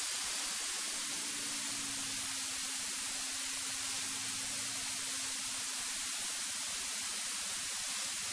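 Steady electronic hiss from a cockpit audio feed with no one talking, and a faint low hum that fades out about six seconds in.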